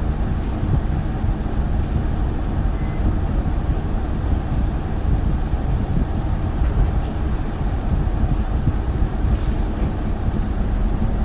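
Interior running sound of an Isuzu Erga city bus (2RG-LV290N3) on the move, a steady rumble of its four-cylinder diesel engine and road noise. A short hiss comes about nine seconds in.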